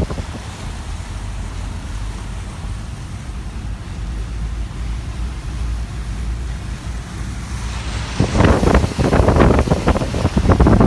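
Wind buffeting the microphone: a steady low rumble that turns into loud, ragged gusts about eight seconds in.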